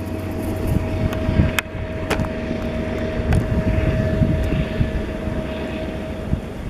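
Union Pacific diesel freight locomotives running under load: a steady deep rumble, with a steady high whine held through most of it that stops near the end, and a few sharp clicks.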